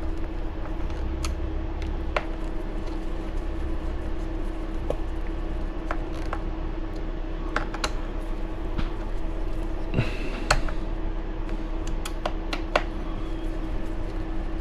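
Small metal screws being driven down by hand into an RC buggy chassis mounts, with scattered light clicks and taps of the tool and parts, a brief cluster of louder clicks about ten seconds in, over a steady low hum.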